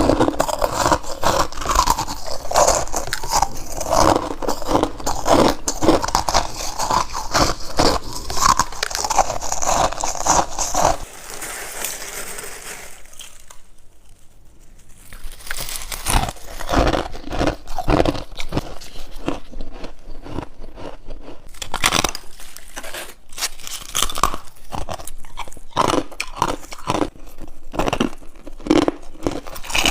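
Close-up crunching of humidifier frost, a soft frost ice, being bitten: dense crunching for about the first ten seconds, a short quieter lull, then separate crisp bites.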